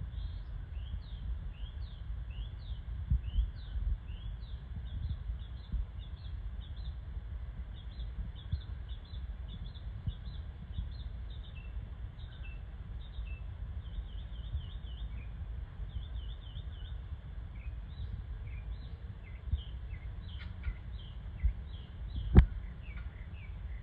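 Small birds chirping in quick, repeated high notes, over a steady low rumble, with one sharp click near the end.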